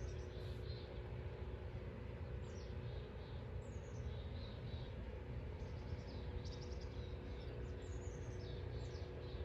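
Small birds chirping, short high calls scattered throughout, over a steady low background hum.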